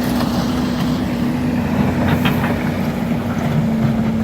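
Heavy diesel engine running steadily with a constant hum, with a few short clatters about two seconds in.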